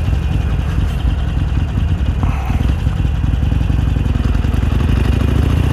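Stock 2017 Harley-Davidson Iron 883's air-cooled 883 cc V-twin running steadily as the bike is ridden slowly, a rapid low pulse from the exhaust.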